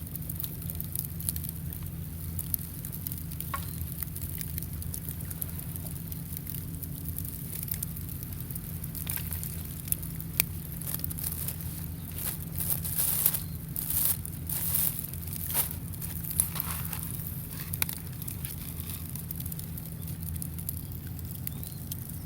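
Small wood fire crackling, with scattered sharp pops and a busier spell of crackling about halfway through, over a steady low rumble.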